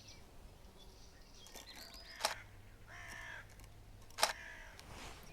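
Two single DSLR shutter releases about two seconds apart, sharp clicks, with harsh calls from a bird in the background, one around each shot.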